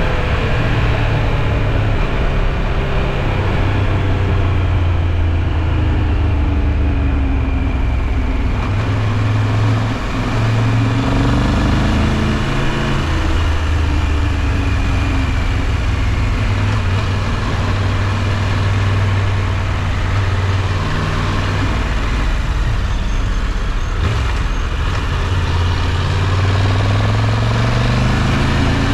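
Triumph Tiger 1200 Rally Pro motorcycle's three-cylinder engine running under way, its pitch rising and falling slowly with the throttle, over steady wind rush.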